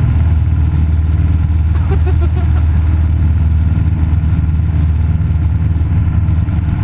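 Cessna 172 Skyhawk's piston engine and propeller droning steadily, heard from inside the cabin.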